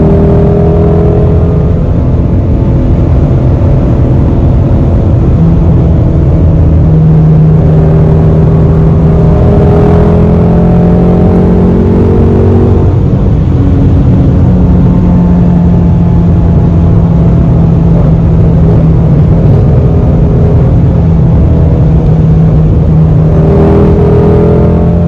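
Shelby GT350's 5.2-litre flat-plane-crank V8 running steadily at cruising speed, its pitch rising gently and then dropping slightly about halfway through.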